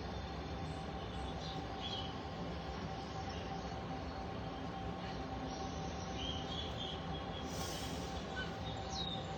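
Steady room noise with a faint constant hum, and a few short, faint chirps from pet parrots.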